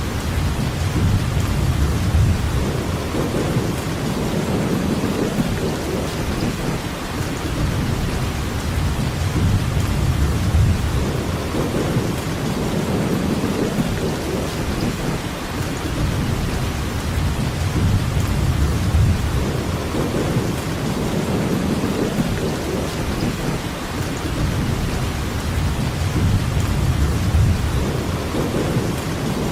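Steady rain hissing, with low rumbles swelling and fading every several seconds.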